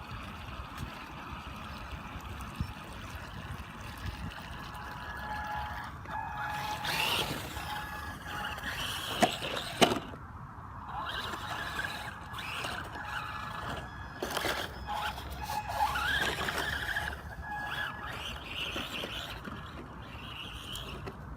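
Small RC truck with a brushed electric motor driving through water: a thin motor whine comes and goes and rises once, between splashing and rushing water.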